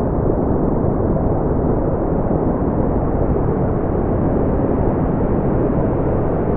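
Brown noise: a steady, deep rumbling hiss, strongest in the bass and dull in the treble, unchanging in level.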